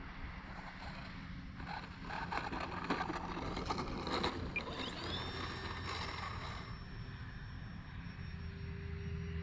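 Electric motor and propeller of an RC model plane (FMS Sky Trainer Cessna 182) in flight. A steady low hum runs under a high whine that glides up in pitch about halfway through and then holds. A stretch of crackling noise fills the middle of it.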